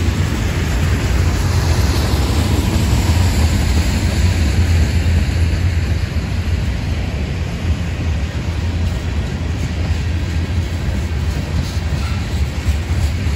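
A mixed freight train's cars (boxcars, tank cars and covered hoppers) rolling past on the rails: a loud, steady rumble of wheels on track, with a few faint clicks near the end.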